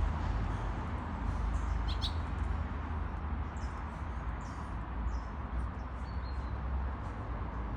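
A few short, high bird chirps: one about two seconds in, a cluster a little later and one more near the end, over a steady low rumble.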